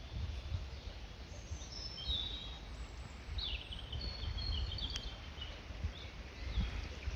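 Wild birds singing in short high phrases, starting about a second and a half in and trailing off after about five seconds, over a steady low rumble.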